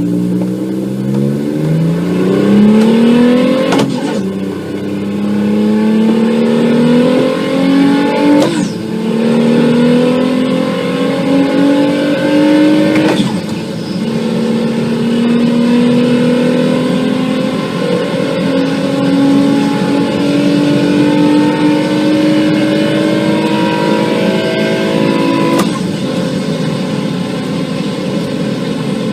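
Big-turbo VW Golf IV VR6 engine accelerating hard through the gears. The engine note climbs steadily in each gear and drops at four upshifts, about 4, 8, 13 and 25 seconds in, each marked by a brief sharp noise. The pull before the last shift is the longest, and the engine runs steadily after it.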